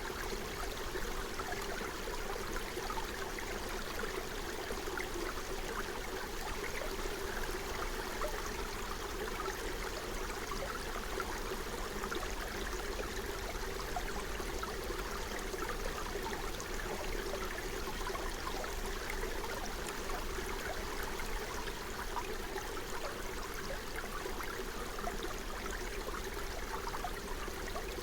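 Small forest stream flowing and babbling over stones, a steady, even rush of water with constant small gurgles.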